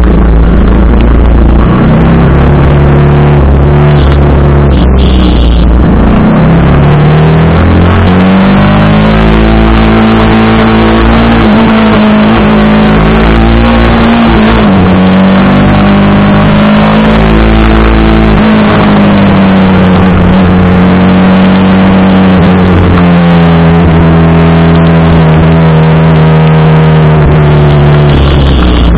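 TVS Apache RR 310 single-cylinder engine running while riding, its pitch climbing and dropping several times as the bike speeds up and eases off, under a constant rush of noise.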